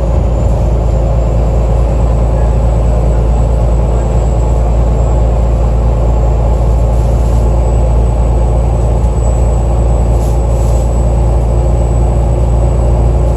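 Alexander Dennis Enviro 500 double-decker bus engine running steadily: a heavy low rumble with steady tones over it and a thin high whine.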